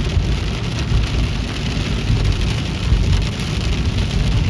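Heavy rain falling on a moving car, a steady hiss, over the car's low rumble of engine and road noise.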